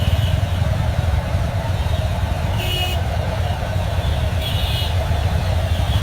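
Road traffic: a steady low rumble of vehicle engines. Two short high-pitched sounds come about three seconds in and again about a second and a half later.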